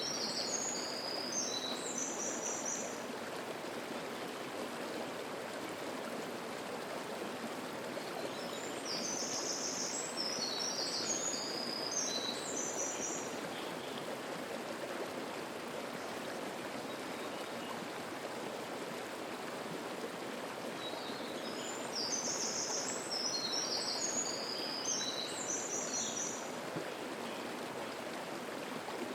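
Mountain river water rushing steadily over rocks. A songbird sings high phrases of quick note clusters three times: at the start, about nine seconds in, and about twenty-two seconds in.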